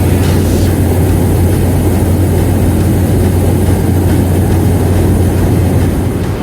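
Loud, steady engine drone with a constant low hum, heard from inside a moving vehicle.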